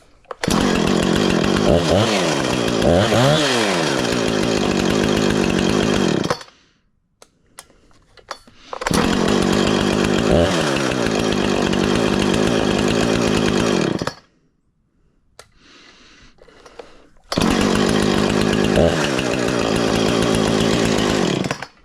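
Husqvarna 455 Rancher two-stroke chainsaw engine running at high revs in three stretches of about five seconds each, cutting off abruptly between them. In the first stretch the pitch dips and climbs back a couple of times as the throttle is worked.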